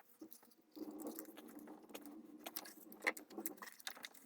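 Faint scattered clicks and light knocks of ignition coils and their plastic connectors being worked loose and handled on a BMW N55 inline-six, with a faint low hum under most of it.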